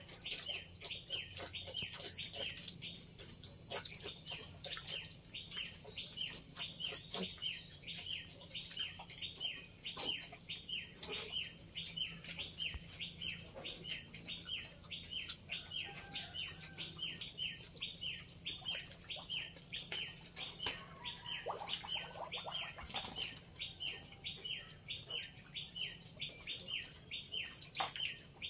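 A bird chirping steadily and rhythmically, about two high chirps a second, with occasional sharp clicks or knocks.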